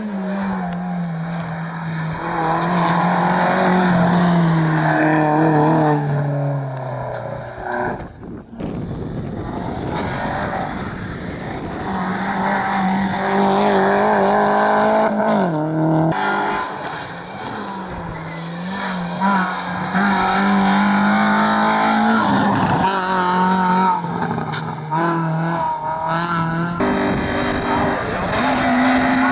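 Rally cars at speed on a hillclimb stage, engines revving hard through the gears, the pitch falling as they brake and downshift, with tyre squeal.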